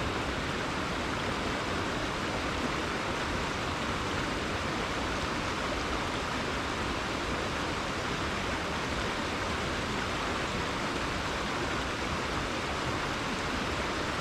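A river flowing over rocks, a steady rushing of water with no change.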